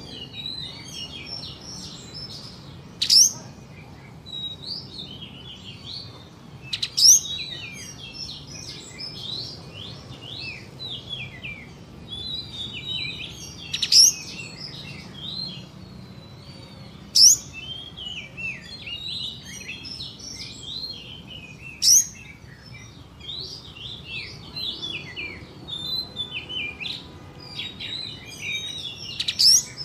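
Kapas tembak songbird singing: a continuous quick twittering, broken every few seconds by a sharp, very loud single note, the 'tembakan' (shot) call that hobbyists prize, six times in all.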